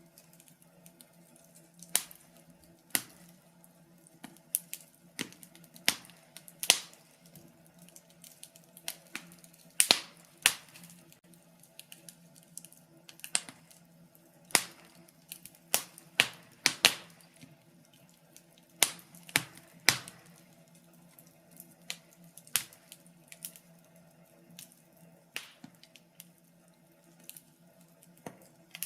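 Wood fire crackling in a fireplace: irregular sharp pops and snaps, some loud, over a faint low hum.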